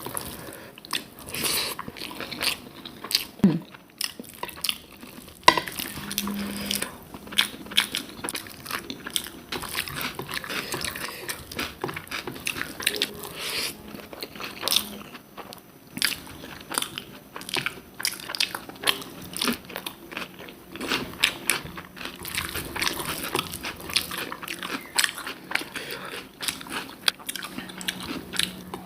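A person eating close to the microphone: steady chewing and biting of rice with mochar ghonto (banana-flower curry), full of short wet clicks and crunchy mouth noises.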